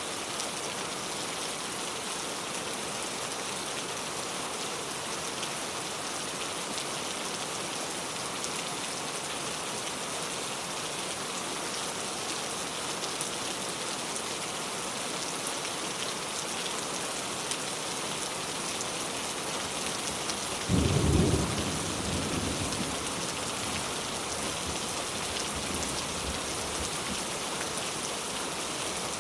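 Steady heavy rain falling, with a single thunderclap about twenty seconds in: a sudden loud crack that rolls off into a low rumble over a few seconds.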